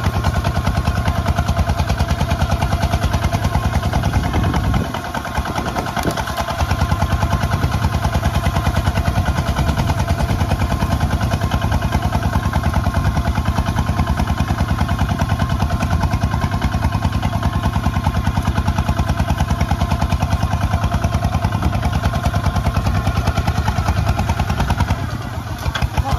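Kubota ZT155 single-cylinder diesel engine of a mini tractor running with a steady, rapid pulse. The level drops briefly about five seconds in and again near the end, then picks back up.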